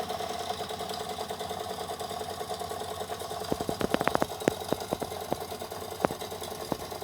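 Two Jensen #70BBG toy live steam engines running steadily at low speed, a fast, even mechanical clatter. A quick cluster of sharp clicks comes about four seconds in and another single click about six seconds in.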